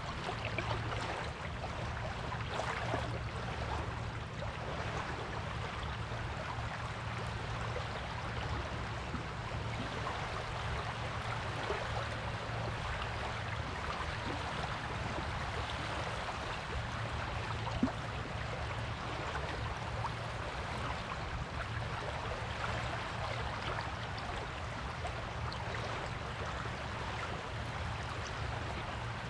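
Steady wash of sea waves on a beach, with one brief tick a little past halfway.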